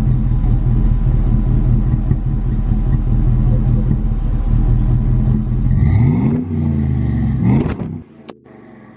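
2007 Dodge Durango's engine through a Flowmaster cat-back exhaust, idling steadily, then revved twice near the end, the pitch rising each time; the sound stops abruptly about eight seconds in.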